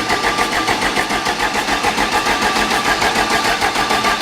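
Volvo diesel engine that has sat unused, turned over by its starter motor in a steady, rapid, even beat without catching; air in the fuel lines is keeping it from firing.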